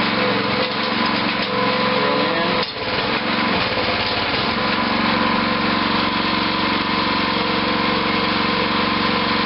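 Small pull-started engine of a mini towable backhoe running steadily, driving its hydraulic pump, with a brief dip in the sound just under three seconds in.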